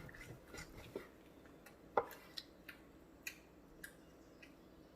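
Faint eating sounds: a string of small clicks and taps, with a slightly louder knock about two seconds in.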